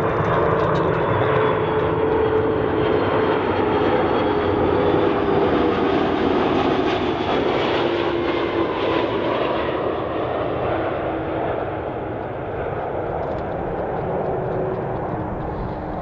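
Airbus A330 jet airliner landing and passing by, a loud steady engine roar with a tone that slowly falls in pitch. It fades gradually over the last several seconds.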